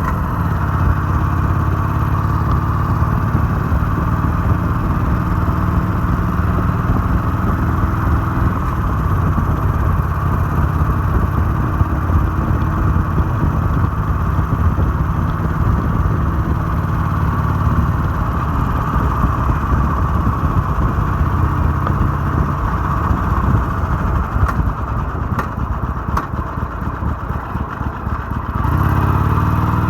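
Harley-Davidson Sportster 883's air-cooled V-twin engine running on the move, steady for most of the stretch, easing off briefly near the end and then picking up again.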